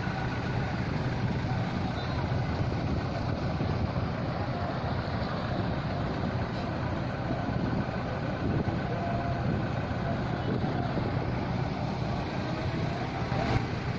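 A motor engine running steadily with a low, even hum, with faint voices in the background.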